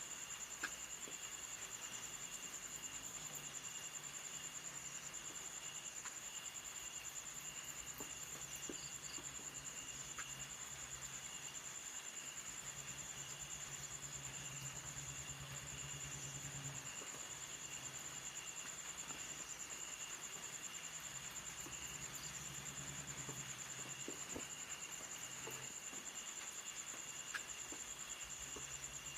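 Insects trilling steadily at a high pitch, with a second, lower trill that starts and stops, a low hum that comes and goes, and a few faint scattered clicks.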